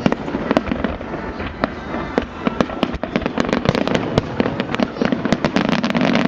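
Fireworks display: a dense string of sharp cracks and bangs, several a second, thickening toward the end.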